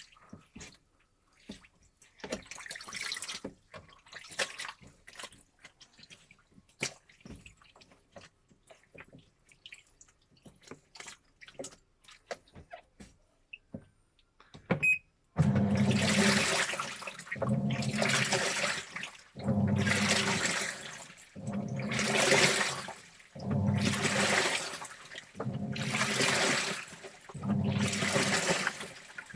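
Washing machine in a wash cycle. For about the first half there are only faint drips and small clicks. Then a loud slosh of water in the drum comes about every two seconds.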